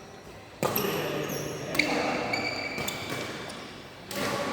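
Indoor badminton play: a sharp racket hit on the shuttlecock about two seconds in, short high squeaks of shoes on the court, and players' voices echoing in the hall.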